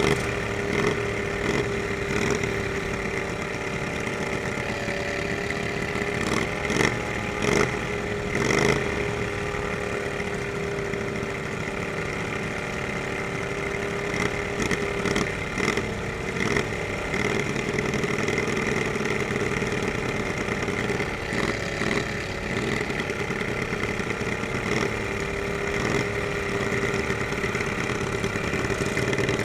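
Lawnmower engines running steadily, with scattered sharp knocks and clatter.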